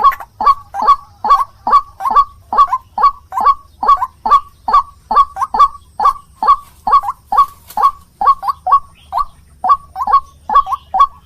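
White-breasted waterhen (ruak-ruak) calling: a steady, loud run of short harsh notes, about two to three a second, without a break.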